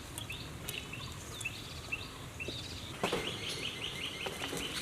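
A small bird chirping in short repeated notes, breaking into a quick run of about ten notes from about three seconds in, over steady outdoor background noise.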